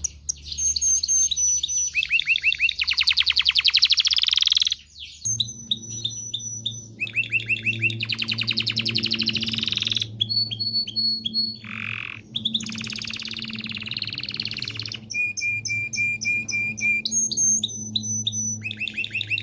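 Domestic canary singing its song: fast trills and runs of repeated chirps, switching to a new phrase every second or two, with a brief pause about five seconds in.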